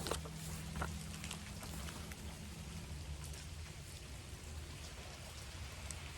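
Rain falling steadily, with scattered sharp drop ticks, over a low hum that partly drops away about halfway through.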